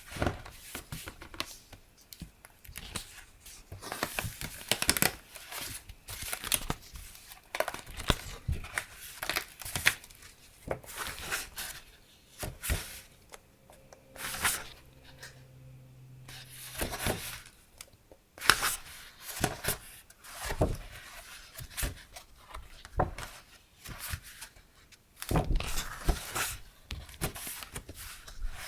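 Sheets of decorative paper being handled, rustling and crinkling in irregular strokes, with a quieter stretch about halfway through.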